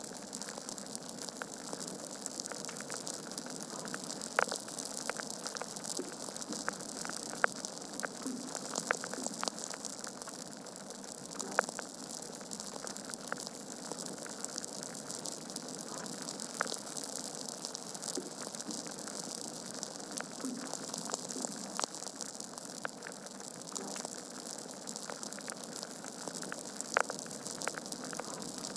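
Wood fire burning in a fireplace: a steady soft hiss with frequent sharp crackles and pops from the burning logs.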